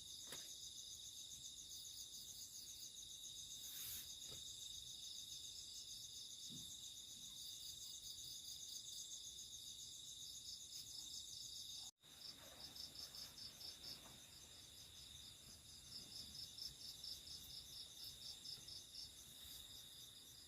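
Crickets and other night insects chirping faintly and steadily in several high-pitched layers. After a brief break about halfway through, one of them pulses a few times a second.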